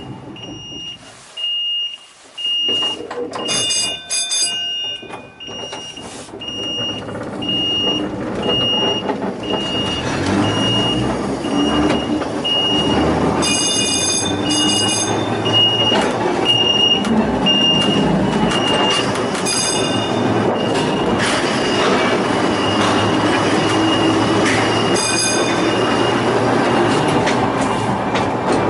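Volks Electric Railway car running on its narrow-gauge track, the wheel rumble building up and staying loud from about ten seconds in. A high electronic beep repeats a little faster than once a second through most of it, and brief ringing tones sound a few times.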